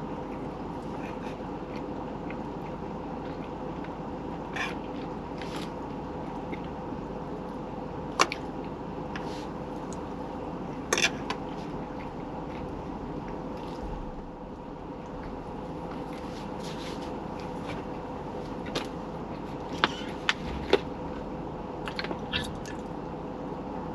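A steady hum, with a few sharp clicks and knocks rising above it: single ones about 8 and 11 seconds in and a cluster near the end.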